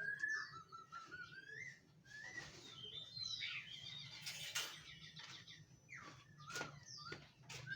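Laughingthrush singing: gliding, warbling whistled phrases broken up by quicker high chirps and a few sharp clicks.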